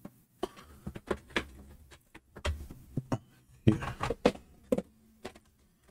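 Irregular clicks, knocks and light clatter of objects being handled and moved about on a workbench, with the louder knocks past the middle: rummaging for the hot glue gun's power cable.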